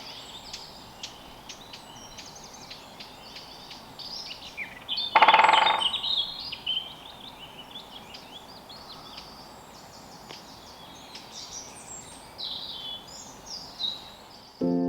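Woodland birdsong: several small birds singing and calling at once in quick high chirps and warbles. About five seconds in, one louder call lasts about a second.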